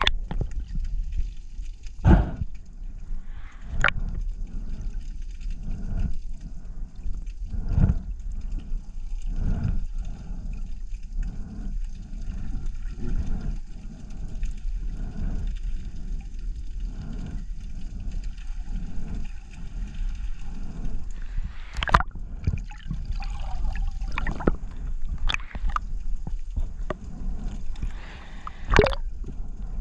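Unidentified underwater croaking: a run of low pulses about once a second, heard through the water against a steady low rumble, with a few sharp clicks mixed in.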